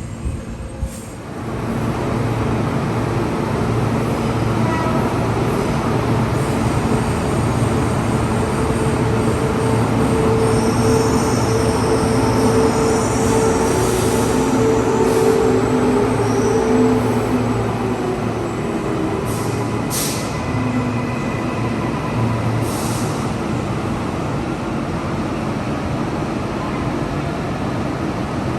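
Electric suburban train running between stations, heard from on board: a steady rumble of wheels on track that swells about two seconds in. High wheel squeal rises over it in the middle stretch, and there are a few short clicks.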